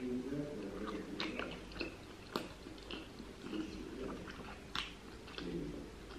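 A person biting into and chewing a McDonald's cheeseburger on a soft sesame bun, with a few sharp wet mouth clicks.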